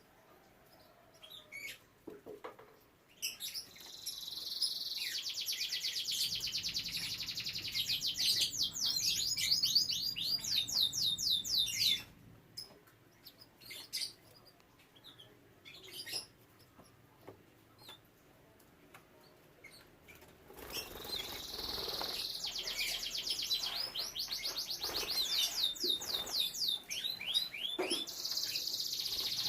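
Domestic canary singing: a long song of rapid rolling trills and quick up-and-down sweeps starts about three seconds in and lasts some nine seconds. Scattered single chirps follow, and a second long trilling song begins about two-thirds of the way through.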